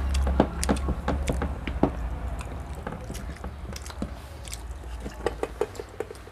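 People chewing and biting food at a meal, with many short wet clicks and smacks. A low rumble sits under the first second or so.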